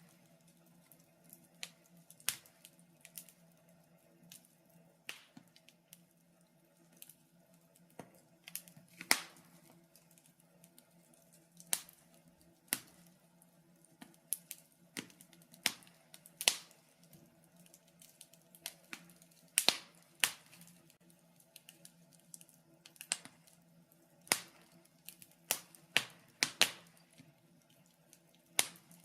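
Wood fire crackling in a fireplace: irregular sharp pops and snaps, a few loud ones among many faint ticks, over a faint steady low hum.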